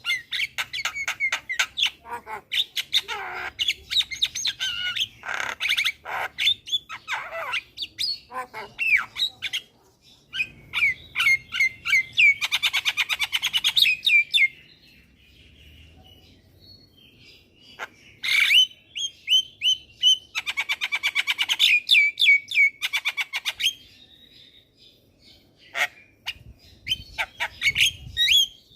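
Javan myna singing: a varied chatter of whistles, squawks and fast rattling runs of notes, broken by two short pauses.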